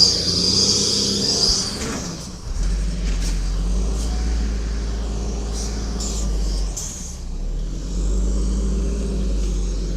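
Garbage truck's Cummins L10G natural-gas engine running with a steady low rumble. A high-pitched sound above it stops about a second and a half in, and a few light clicks sound over the engine.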